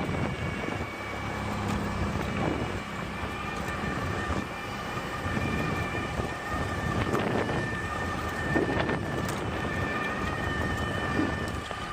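Wind rush on the microphone and rolling road noise from a moving electric bike, with a steady high whine that runs through it and a few light knocks.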